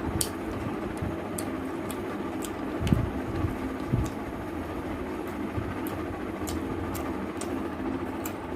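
Wet chewing and lip-smacking mouth sounds from eating rice and chicken curry, heard as many short sharp clicks, with a couple of soft low thumps about three and four seconds in. A steady low hum runs underneath.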